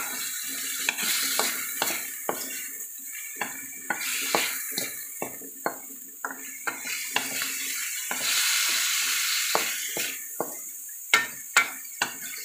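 Chicken and chorizo sizzling in a pan while a wooden spatula stirs them, knocking and scraping against the pan about twice a second. The sizzle swells for a couple of seconds about eight seconds in.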